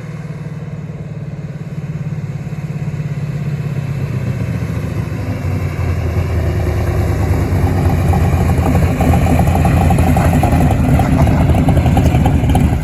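Big-block Mopar 512 stroker V8 in a 1968 Plymouth Barracuda drag car running, growing steadily louder.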